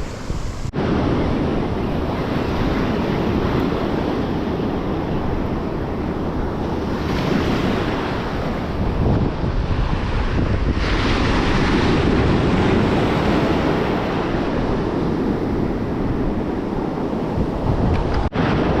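Ocean surf breaking and washing on a beach, with wind buffeting the microphone. The wash swells louder twice, about seven seconds in and again around eleven seconds.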